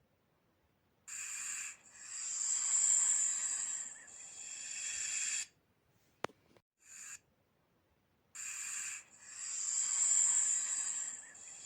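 A snake hissing: two long, high-pitched hisses about seven seconds apart, each a few seconds long and opened by a short puff.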